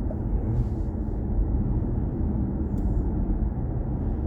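Steady low road and tyre rumble of a BMW i4 M50 electric car driving along.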